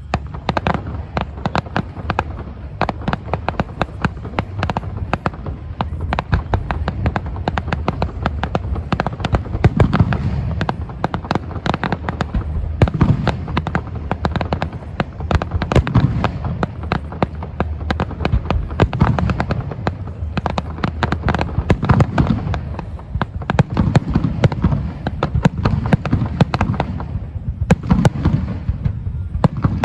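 Fireworks display in full barrage: rapid crackling bangs, many a second, over deep rolling booms of aerial shells, thinning briefly near the end before picking up again.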